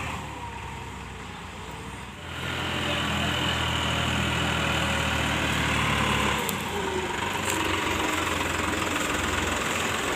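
Heavy diesel farm engine running, revving up about two seconds in and holding high for about four seconds before easing back.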